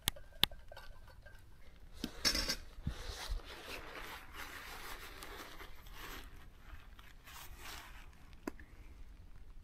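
Handling noises: a sharp click, a crunching burst about two seconds in, then several seconds of rustling and scraping, and another click near the end.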